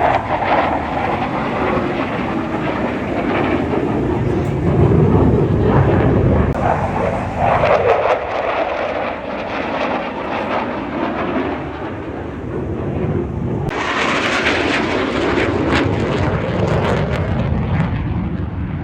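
Fixed-wing aircraft engine noise as a plane flies past, loud and continuous, changing abruptly about two-thirds of the way through.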